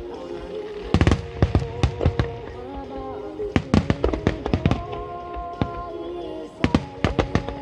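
Fireworks going off in rapid volleys of sharp cracks and bangs, in three clusters: about a second in, around three and a half seconds, and near the end. Steady music plays underneath.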